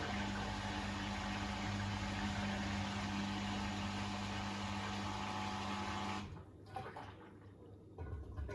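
Beko WTK104121A washing machine mid-cycle: a steady hum with water rushing that stops abruptly about six seconds in, followed by a couple of low thumps near the end.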